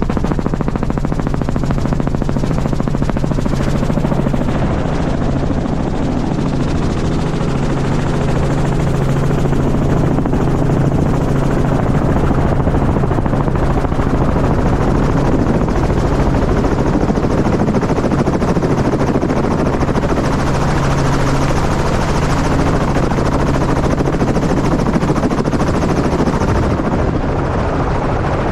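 Helicopter running steadily at close range, its rotor blades beating in a fast, even chop over a steady engine tone.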